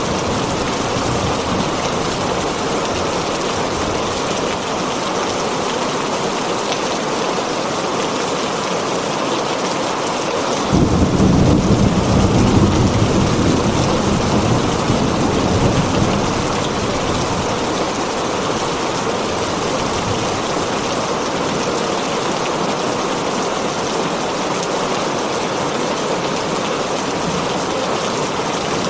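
Heavy rain drumming steadily on a tin roof. About ten seconds in, a roll of thunder breaks in suddenly and rumbles deep for about six seconds before fading back under the rain.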